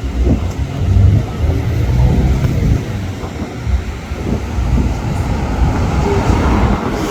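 Low, steady rumble of vehicle engines and road traffic, swelling about a second in.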